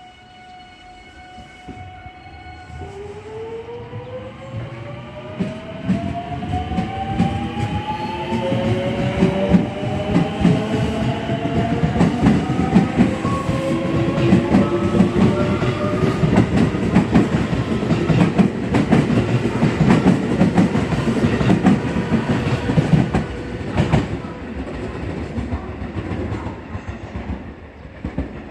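Electric train pulling away, its traction motor whine rising in pitch as it picks up speed, wheels clattering over rail joints; it grows loud through the middle and then fades. A steady tone sounds for the first couple of seconds before the whine begins.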